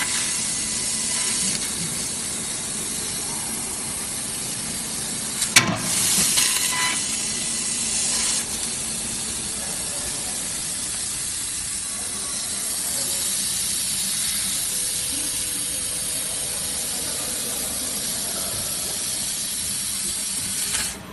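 A 3000 W CNC fiber laser cutter cutting metal, with a steady hiss from the cutting head. About five and a half seconds in there is a sharp click, and for the next few seconds it is louder; the hiss stops suddenly at the very end.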